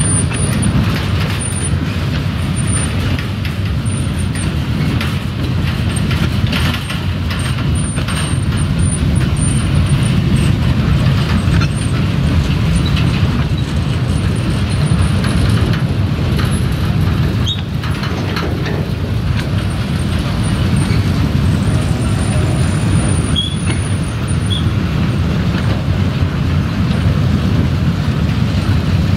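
A narrow-gauge peat railway train rolling slowly along the track: a steady low rumble with a few faint clanks of wheels and couplings.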